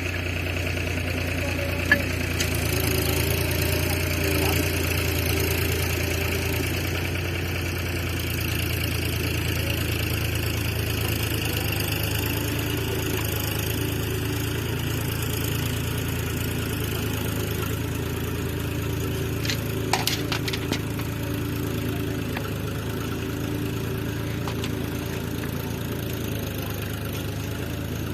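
Diesel engine of a tractor-recovery machine running steadily at idle to moderate speed. There is a sharp click about two seconds in and a few short knocks around twenty seconds in.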